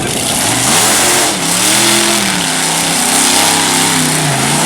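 Monster truck engine revving hard at full load, its pitch climbing about a second in, holding with small wavers, then dipping near the end and climbing again, over a loud rushing roar.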